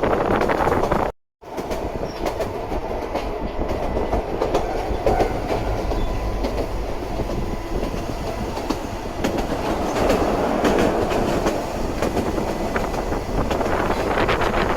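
Sangi Railway Hokusei Line narrow-gauge electric train running, with a steady rumble and a rapid clatter of wheels over the track. The sound cuts out briefly about a second in, then carries on.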